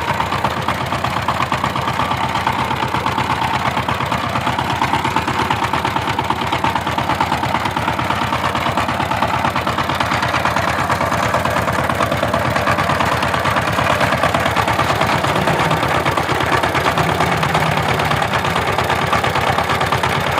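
Power tiller's diesel engine running steadily at idle, a fast, even knocking beat.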